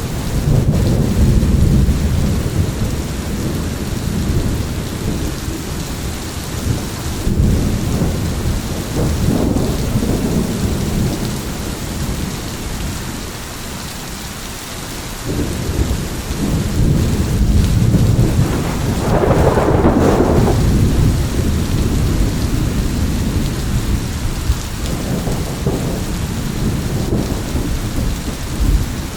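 Steady heavy rain with rolling thunder rumbling low and swelling in waves, easing off briefly in the middle before a sharper, brighter thunderclap about two-thirds of the way through.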